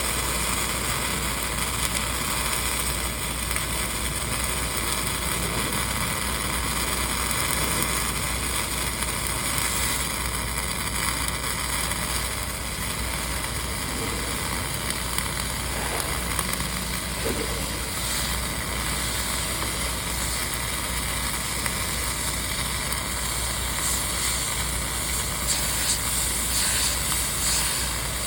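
Dual-shield flux-cored arc welding: a steady, unbroken arc noise that keeps an even level throughout.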